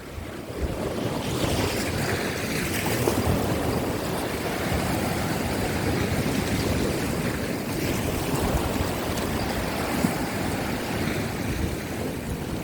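Rough sea waves breaking and washing over coastal rocks, with strong wind buffeting the microphone.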